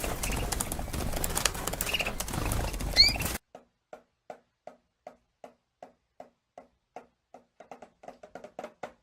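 A parrot's short chirps and a quick rising whistle over loud noisy background, cut off suddenly after about three seconds. Then a string of evenly spaced clicks, about two or three a second, coming faster near the end.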